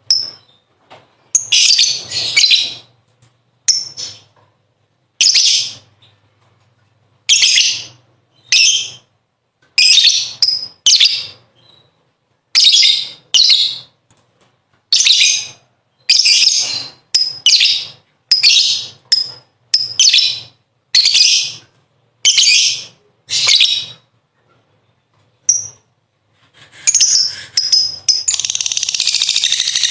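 Lovebird's shrill chattering song (ngekek): about twenty short bursts with brief pauses between them. Near the end they run together into one unbroken, continuous chatter.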